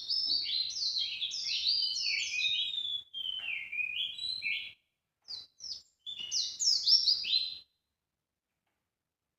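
Songbird calls played as a bird-lure recording: quick chirps, each sweeping down in pitch, in rapid phrases with short breaks. They cut off abruptly near the end into dead silence.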